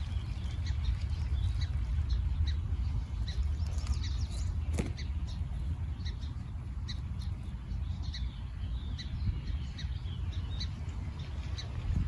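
Small birds chirping: short high chips scattered irregularly, several a second at times, over a steady low rumble.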